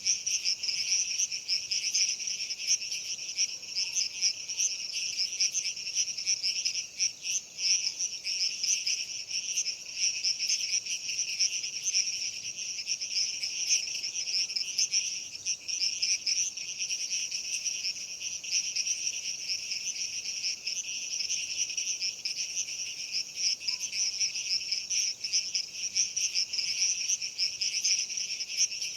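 Dense, steady chorus of insects such as crickets: a continuous high chirring that never pauses.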